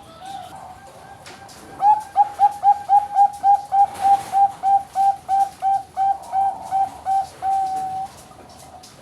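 Zebra dove (Bangkok-line perkutut) singing: a soft opening coo, then a fast run of about twenty short coos, roughly four a second, ending on one longer drawn-out note.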